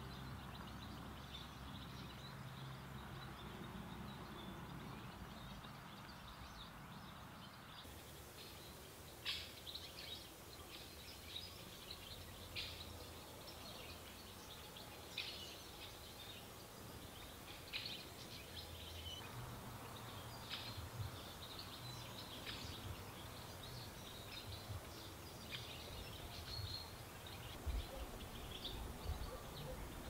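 Quiet outdoor ambience with a steady low background rumble. After the first several seconds, short, sharp bird chirps come every second or two.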